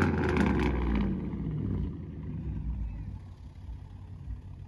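Car engine and exhaust, loud just after a rev, then settling about a second in to a low idle rumble.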